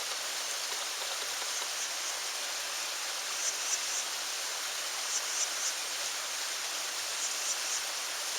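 Steady rushing outdoor background noise, with faint high chirps in short groups every second or two.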